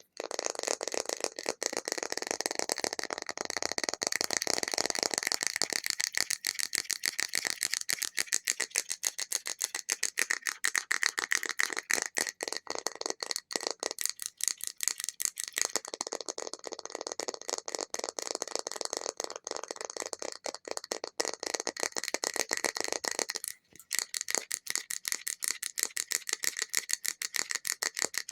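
Extremely fast, continuous tapping by fingers on a hard object, the taps running together into a dense rattle. The tapping stops briefly about three quarters of the way through, and its tone shifts about a fifth of the way in, as if the fingers moved to another surface.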